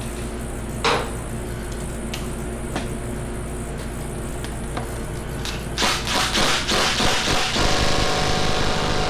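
A sharp knock about a second in, then a handheld power tool runs hard for the last few seconds, turning a bolt extractor on a broken-off bolt. It lacks the power to free it.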